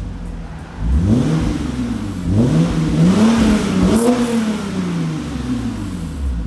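Hyundai Genesis Coupe 3.8's V6 running through a Junbiel GT cat-back dual-muffler exhaust, revved twice from idle: a short blip about a second in, then a longer, higher rev that falls back to idle.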